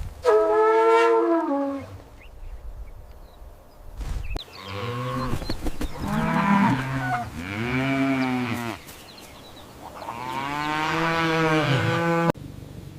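Cattle mooing: one higher call at the start, then a run of lower, drawn-out moos from about four seconds in, cut off abruptly near the end.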